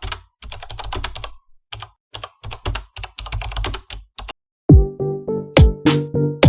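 Quick, irregular clicks of typing on a computer keyboard. About two-thirds of the way in, electronic music starts with a heavy kick drum beat and steady tones.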